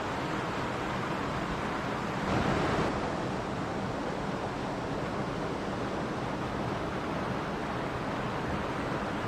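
Mountain stream running: a steady wash of water noise, with a brief louder swell about two and a half seconds in.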